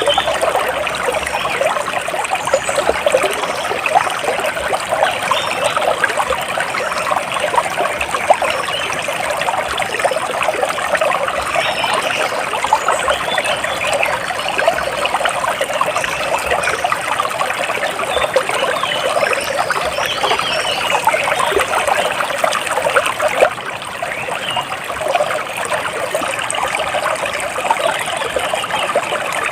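Water splashing and trickling steadily, with faint bird chirps now and then.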